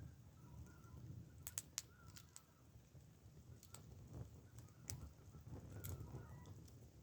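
Campfire wood crackling, with a handful of sharp pops spread irregularly through it, and faint bird chirps in the background.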